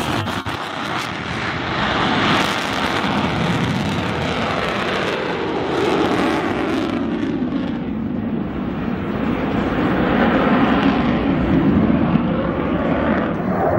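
Jet noise from an F-22 Raptor's two engines during its demonstration: a continuous loud roar whose tone shifts as the fighter moves, swelling slightly near the end.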